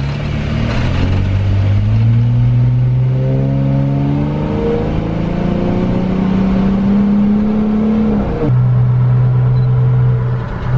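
Car engine under acceleration, its pitch climbing steadily for about eight seconds, then dropping suddenly at a gear upshift and holding steady.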